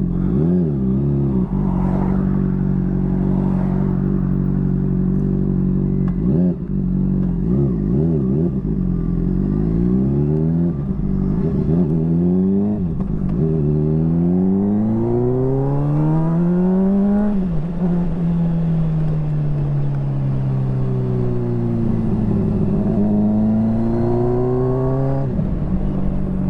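Motorcycle engine heard from the rider's seat, its pitch rising in short pulls as it accelerates, climbing in one long rise, then falling slowly as it eases off, and rising again near the end.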